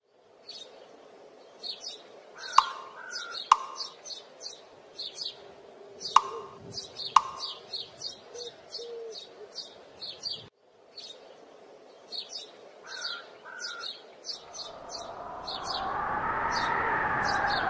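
Small birds chirping over and over in short high notes, with four sharp loud clicks in the first half. Near the end a swelling pitched drone fades in and grows louder.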